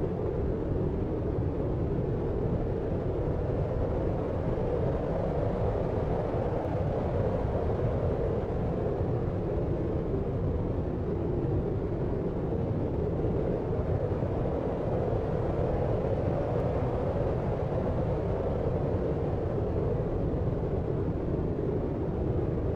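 Deep, steady sleep noise: an even, low rumbling hiss with most of its weight in the bass, unbroken and unchanging, with no distinct events.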